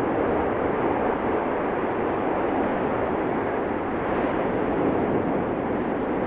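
Steady, even roar of the Cumbre Vieja fissure eruption, with no separate blasts or bangs.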